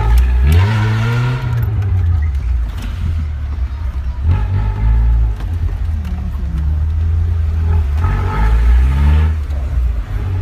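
An engine revving up and settling back three times, over a steady low running sound.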